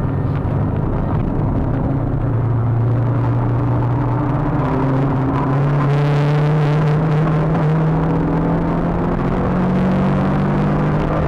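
Renault Clio Trophy 182's 2.0-litre four-cylinder engine pulling hard under load, heard from inside the car, its revs climbing slowly and steadily, with tyre and wind noise underneath.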